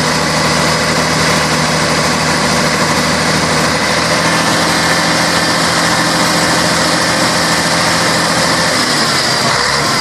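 Scania K113 bus's diesel engine running steadily at low revs, a continuous drone whose pitch shifts slightly about four seconds in and again near the end.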